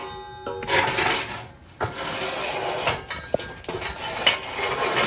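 Metal clanking and scraping as an exhaust Y-pipe is dropped and pulled out from under a car, opening with a brief ringing clang of metal.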